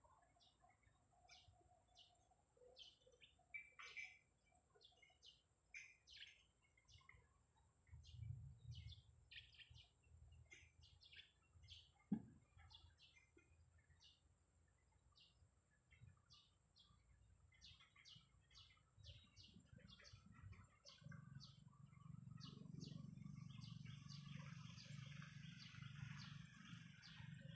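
Faint small birds chirping, with many short, scattered high chirps. There is a single sharp knock about twelve seconds in, and a low rumble with rustling noise in the last few seconds.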